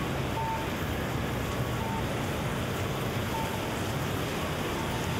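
City street in steady rain: an even hiss of rain with a low rumble of traffic. Short faint beeps recur about every second and a half.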